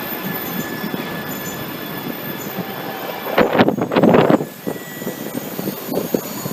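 Shinkansen platform noise: a steady rush from trains and the station with a thin steady whine, broken by a loud rushing burst about three and a half seconds in that lasts about a second.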